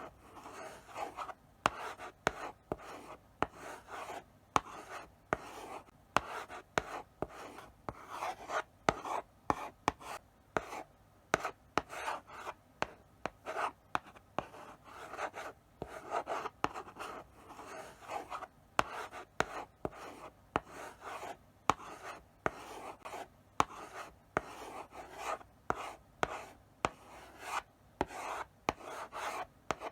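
Chalk writing slowly on a blackboard: short scratchy strokes with sharp taps as the chalk meets the board, in an uneven rhythm of several strokes a second.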